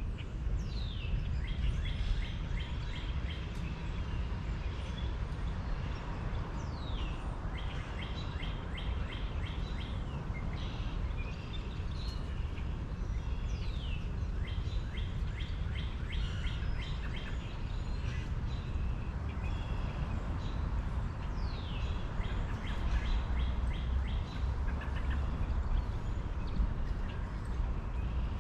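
Birds singing and calling over a steady low rumble. There are several downward-sweeping whistles and recurring runs of rapid, evenly repeated trill notes.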